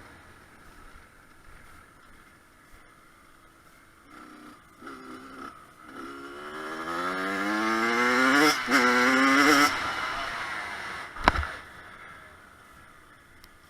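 Kawasaki KX100's two-stroke single-cylinder engine, faint with a few short blips at first, then revving up steadily from about six seconds in to its loudest near nine seconds before dropping away. A single sharp click follows a couple of seconds later.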